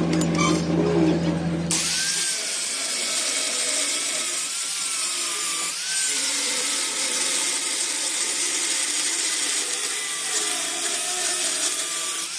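A power tool working metal: a low machine hum for the first two seconds, then a steady hissing grind with a high whine that wavers in pitch.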